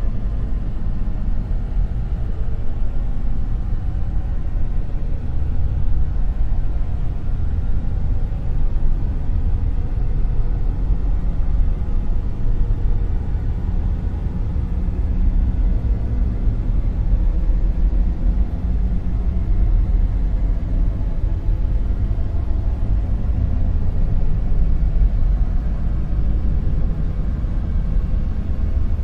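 Dark noise: a steady, deep rumble, heavy in the bass, with a faint hiss above it and no breaks or events.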